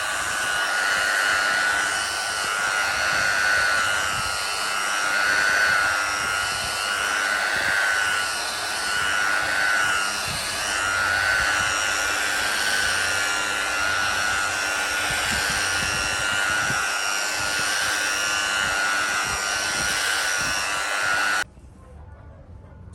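Handheld electric power tool motor running with a steady whine that wavers a little in pitch, then switched off suddenly near the end.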